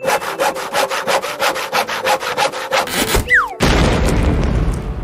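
Cartoon sound effects: a rasping rattle repeating about five times a second for some three seconds, then a short falling whistle and a loud boom that dies away slowly.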